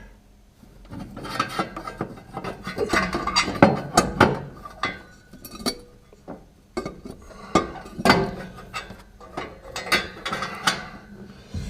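Metal clinking, knocking and scraping as a steel exhaust down pipe is worked into place against the exhaust manifold of a Jaguar 3.8 engine, in irregular bursts with a short lull about halfway through.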